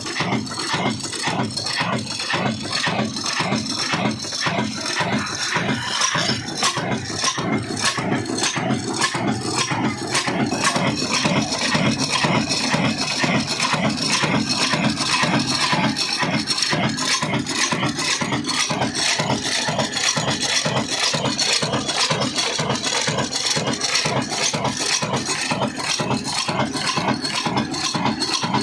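Old Ruston diesel engine running steadily, its firing knocks and mechanical clatter coming in an even beat several times a second.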